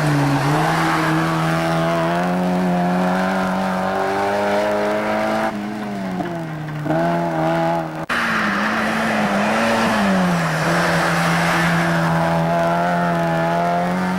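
Mazda MX-5 race car engine running at high revs, a steady note that wavers slightly in pitch. It dips briefly about halfway through and breaks off abruptly about eight seconds in before carrying on.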